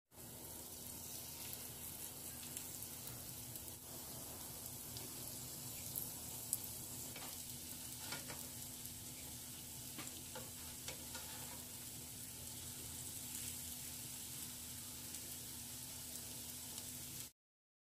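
Vegetable-and-shrimp patties sizzling steadily as they fry in oil in a nonstick frying pan, with a few light clicks of the spatulas against the pan partway through. The sound stops abruptly near the end.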